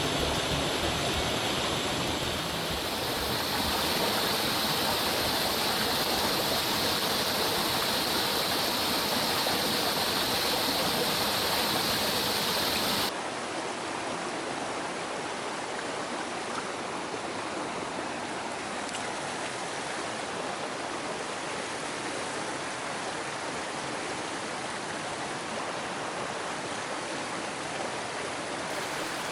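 Mountain stream flowing over rocks, a steady wash of water. About halfway through it steps down slightly quieter and duller.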